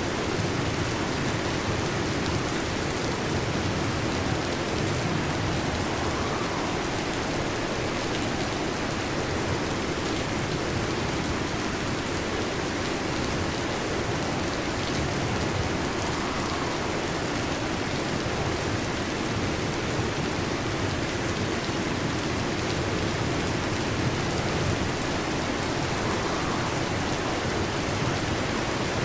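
Heavy rain falling steadily on a metal roof, an even hiss with no thunder heard.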